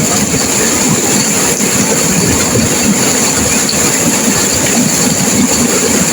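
Turbulent river water rushing and crashing over rocks, a loud, steady roar without pause.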